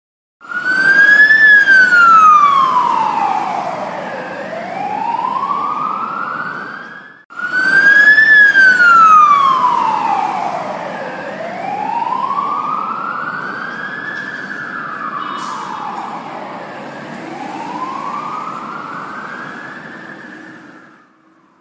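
Emergency vehicle siren wailing, its pitch sweeping slowly down and back up every few seconds. It breaks off about seven seconds in, starts again, and fades out near the end.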